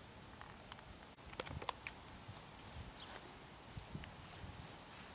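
A small bird calling outdoors: a series of short, high chirps, each a quick hooked note, repeated about once every three quarters of a second. A few soft knocks come in between the chirps.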